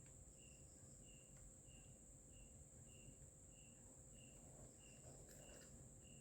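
Near silence with faint insects: a steady high-pitched trill under a short high chirp that repeats evenly about one and a half times a second, like crickets.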